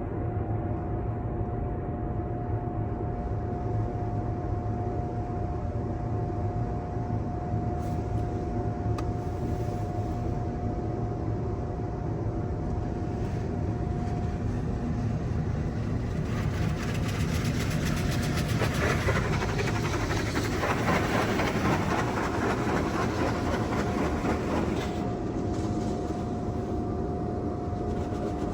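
Petit AccuTrac 360-i in-bay automatic car wash running: a steady low rumble with a thin steady whine. About halfway through, a louder hiss of water spray builds up for several seconds, then eases off.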